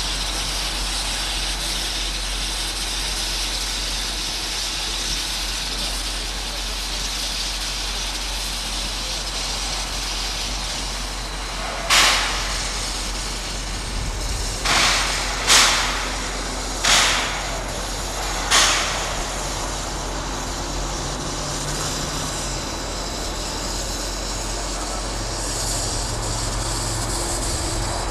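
Narrow-gauge steam train running, a steady wash of noise. About halfway through come five short, loud bursts of noise over about seven seconds, each dying away quickly.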